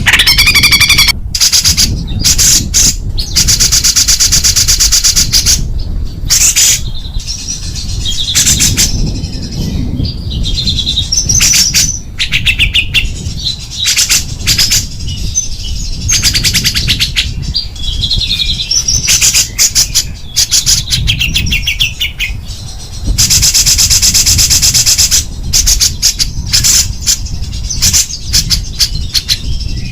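Songbird singing loud, harsh, very rapid rattling trills ('tembakan rapat dan kasar') in bursts of one to three seconds, broken by shorter warbled and whistled phrases, over a steady low rumble.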